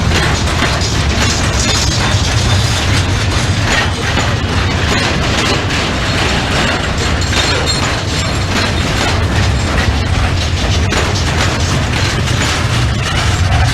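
Freight train of container wagons rolling past: a steady, loud rumble with rapid clattering and clanking from the wheels and wagons.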